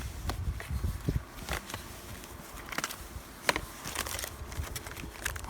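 Packaging being opened and its contents handled: irregular rustling and crinkling with scattered small clicks and knocks.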